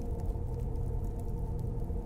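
Log fire burning in a fireplace: a steady low rumble with a few faint crackles.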